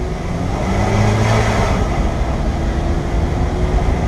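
Car engine pulling uphill under load on a steep mountain climb, heard from inside the cabin over steady road and wind noise. The engine note rises slowly in pitch in the second half.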